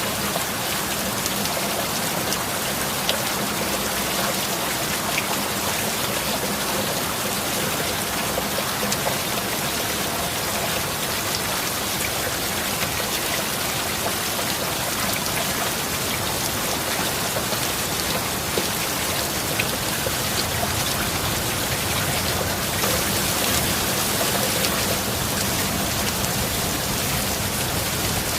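Steady heavy rain, an even hiss with scattered individual drops ticking, growing a little louder about 23 seconds in.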